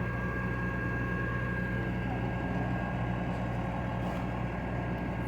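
A large engine idling steadily, a constant low hum with a faint steady whine over it.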